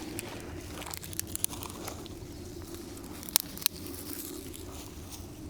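Dry sticks and forest litter being handled for a campfire, with crunching and crackling and two sharp snaps about three and a half seconds in.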